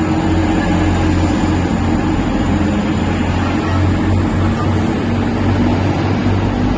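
A train's steady, loud low engine drone at close range, with a faint high whine that rises slightly near the end.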